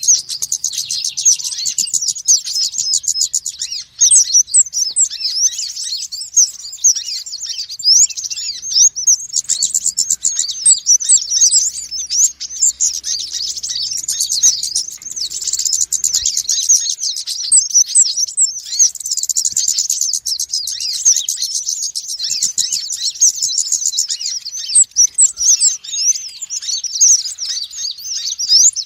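Small sunbirds, konin and wulung, calling noisily together in a lure recording: a dense, continuous tangle of quick, high, thin chirps and trills.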